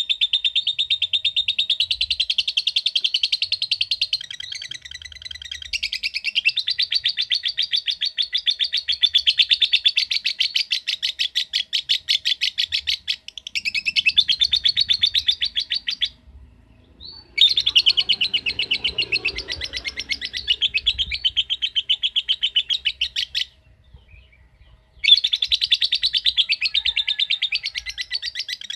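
Lovebird giving its long, rapid 'ngekek' chatter: a fast, even string of sharp, high chirps in long runs, breaking off briefly about 16 seconds in and again about 23 seconds in before starting up again.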